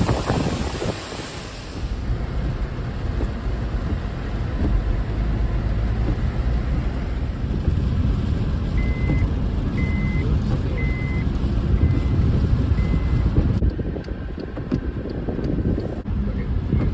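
Strong wind buffeting the microphone with a steady low rumble. About halfway through come five short, even electronic beeps about a second apart.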